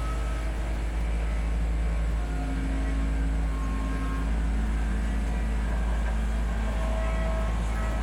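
Kubota B2650 tractor's three-cylinder diesel engine running steadily while it powers the BH77 backhoe, with a few higher tones coming and going over it.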